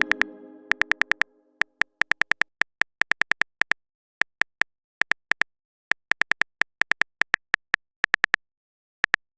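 Texting-app keyboard typing sound effect: short, sharp clicks in irregular runs, like keys being tapped one after another. The tail of a chime fades out in the first second.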